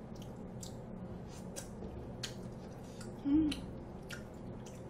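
Close-miked chewing with many soft, wet mouth clicks, and a short low hum just after three seconds in.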